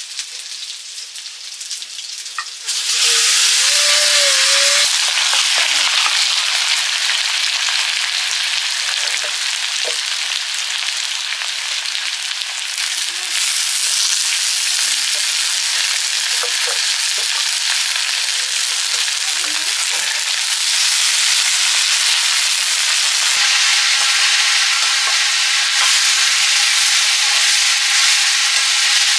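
Chopped fiddlehead fern greens hit hot oil in a wok over a wood fire. They sizzle loudly from about three seconds in, then keep frying steadily while a ladle stirs them.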